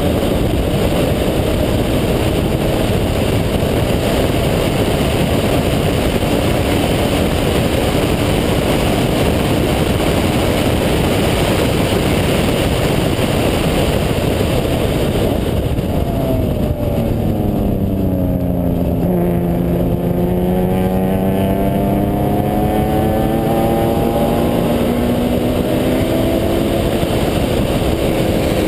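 Single-turbo Mazda RX-7 rotary engine at speed under heavy wind rush. About halfway through the engine note drops as the car slows, then climbs steadily as it accelerates hard again, easing off near the end.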